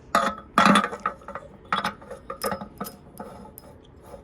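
Metal parts clinking and clattering as they are handled, about half a dozen sharp ringing knocks at uneven intervals, the loudest about half a second in.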